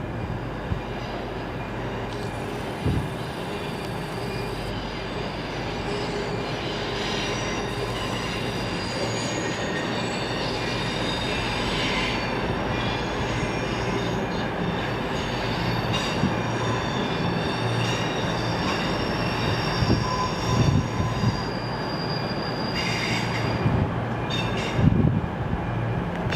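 Train running along the rails with a high wheel squeal that comes and goes, over a steady low hum. A few knocks and clanks near the end.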